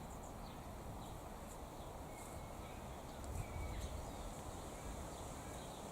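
Wind rumbling on the microphone, swelling about three seconds in, with faint short bird chirps in the background.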